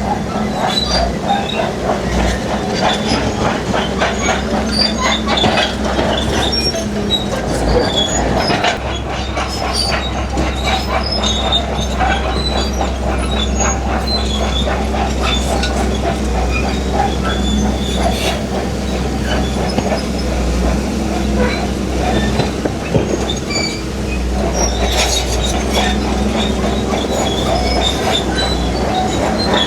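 Heavy crawler bulldozer pushing rock: its diesel engine runs steadily while the steel tracks clank and squeal without a break.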